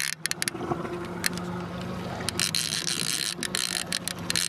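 Fishing reel clicking in a rapid ratcheting run while a fish is played, over the steady hum of the boat's motor.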